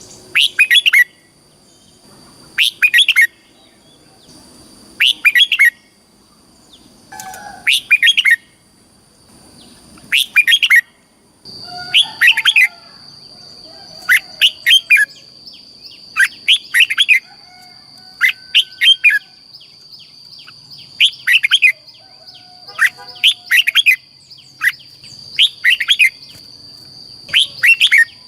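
Red-whiskered bulbul singing: short, loud whistled phrases repeated about every two seconds, over a faint steady high-pitched tone.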